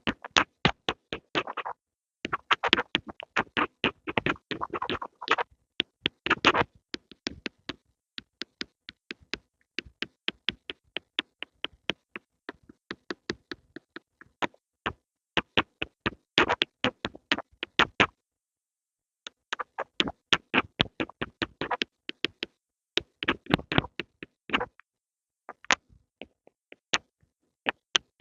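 Pencils tapped and handled close to the microphone: rapid, irregular clicks and taps, sometimes in dense clusters and sometimes spaced out, with a short pause partway through.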